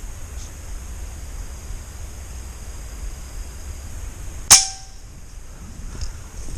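A single air-rifle shot about four and a half seconds in: one sharp crack followed by a brief metallic ring.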